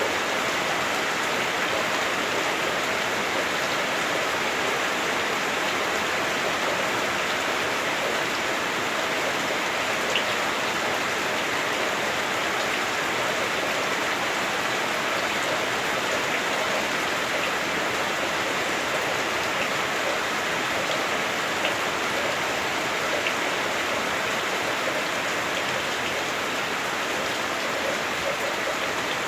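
Heavy rain drumming steadily on a house roof, heard from indoors, the roof muffling it to a dull, dense hiss with a few faint single drips.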